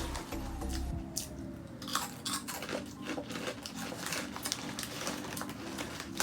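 Close-up crunching and chewing of a crunchy spicy snack, a dense run of irregular crackly bites.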